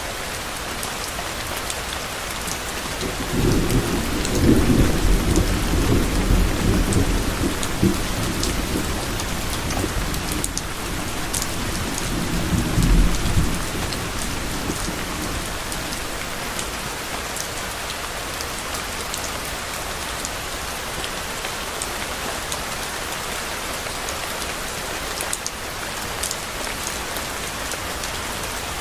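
Steady rain falling and pattering, with low thunder rumbling about three seconds in for several seconds, and a second, shorter rumble around twelve to thirteen seconds in.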